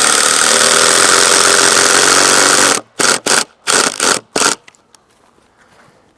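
A handheld power tool's motor runs at full speed for nearly three seconds, then gives four short trigger bursts before it stops.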